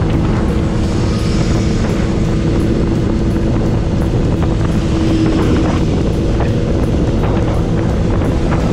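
Motorcycle engine and exhaust running steadily while riding, with wind noise on the microphone.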